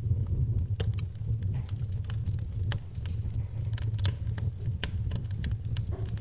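Wood fire in a fireplace crackling, with frequent sharp, irregular pops over a steady low rumble, and rain falling in the background.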